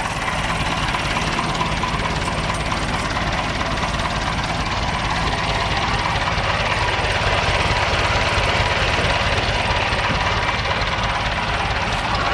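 Diesel tractor engine running steadily with a fast low pulsing, getting a little louder about halfway through.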